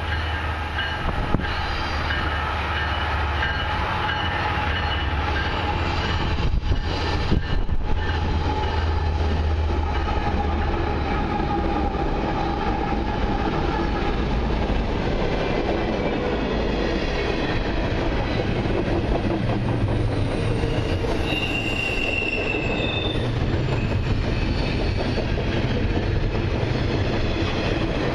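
Four-unit CN diesel freight locomotive consist passing close by with a heavy low rumble, followed by double-stacked intermodal container cars rolling past, their wheels clattering over the rail joints. A short, high wheel squeal comes about two-thirds of the way through.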